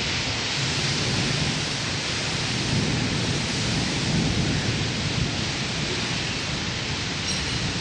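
Thunderstorm: heavy rain falling steadily, with a low rumble of thunder underneath.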